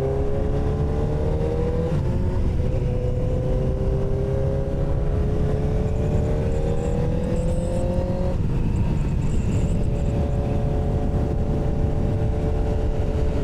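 Motorcycle engine under way, its pitch rising slowly for several seconds, then dropping sharply about eight seconds in at an upshift before running steady. Wind rumble on the microphone underneath.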